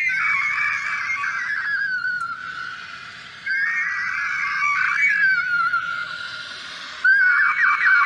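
Bird screeching: three long, loud, high calls, each sliding slowly downward. The second starts about three and a half seconds in and the third near the end.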